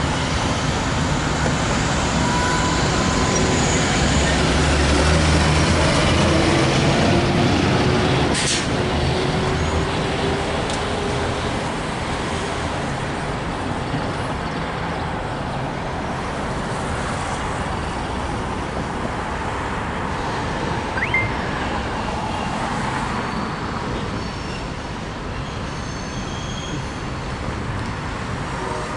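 Freight train of refrigerated boxcars rolling steadily past on a curve, a continuous rumble of wheels on rail, with faint high wheel squeal near the end. A road vehicle passes close by in the first few seconds, adding a louder low rumble.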